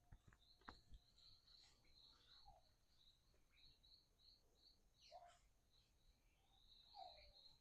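Near silence with faint outdoor chirping: a thin, high chirp repeating about four times a second in runs, and a few faint short bird calls that drop in pitch, one about five seconds in and another near the end.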